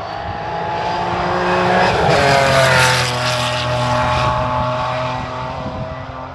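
A classic car's engine driving past on a hillclimb run, growing louder to a peak about two and a half seconds in and then fading as it moves away.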